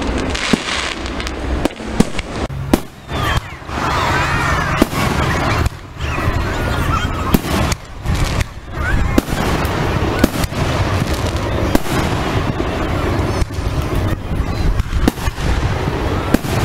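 Aerial fireworks display: shells bursting in a rapid string of sharp bangs over a continuous low rumble.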